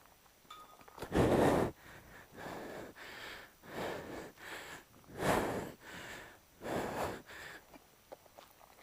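A person breathing heavily, in a run of loud rushing breaths in and out about once a second, winded from the exertion of climbing over a wall.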